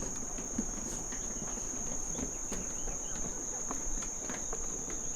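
Insects singing in one steady, unbroken high-pitched trill, with faint footsteps and scuffs from walking underneath.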